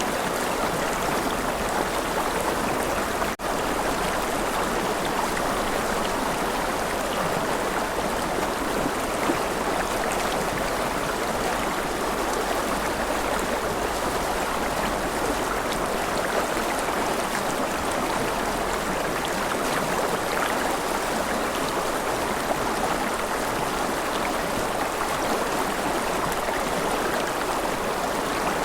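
A river flowing steadily, an even rushing of water, with a momentary dropout a few seconds in.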